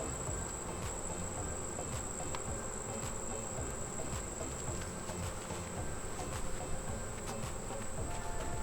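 Honeybees buzzing around an open hive, over a steady high-pitched whine, with scattered faint clicks.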